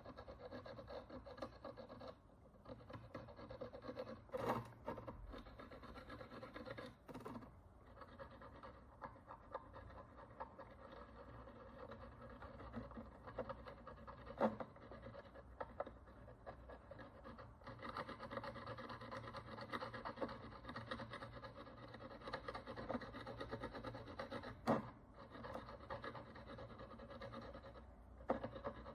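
A hand tool scratching and rubbing at the encrusted surface of an ancient Roman bronze coin, cleaning off dirt and oxidation in a steady, faint rasp, with a few sharp clicks of the tool against the coin.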